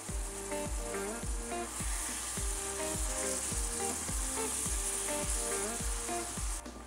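Minced beef and onions sizzling in a frying pan as a spatula stirs them; the sizzle grows louder about two seconds in and stops abruptly near the end. Background music with a steady beat plays underneath.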